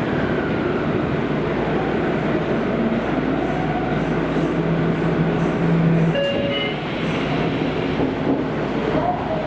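Running noise heard inside a Kobe City Subway 5000-series car as it rumbles through the tunnel and slows into a station, with a steady hum in the middle and brief higher tones about six seconds in.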